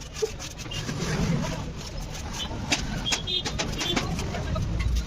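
Scattered sharp clicks and taps over a steady low rumble, with a brief bird chirp about three seconds in.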